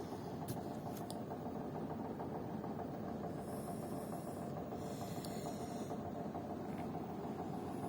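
Air conditioner running with a steady, rapid knocking, the knock that is the unit's complaint. Two sharp clicks come about half a second and a second in.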